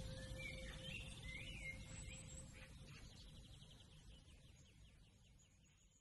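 Faint birdsong, short chirps and a rapid trill, over a low steady rumble, with a held tone dying away about halfway; everything fades out.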